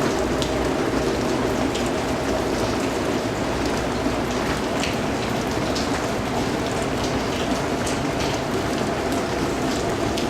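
Steady rain falling, a dense even patter with individual drops pattering now and then on a surface.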